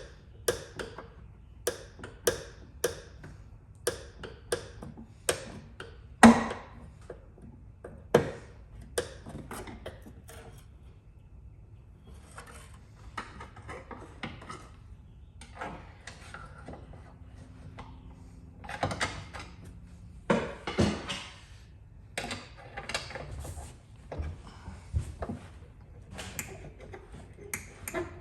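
Light, sharp taps of a tool on a car's sheet-metal body panel during paintless dent repair, about two a second at first, then sparser and irregular, with one louder knock about six seconds in.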